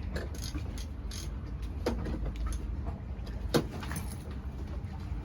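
Hand tools clinking and knocking on metal engine parts as an inboard boat engine is taken apart, with two sharper clanks about two seconds and three and a half seconds in, over a steady low rumble.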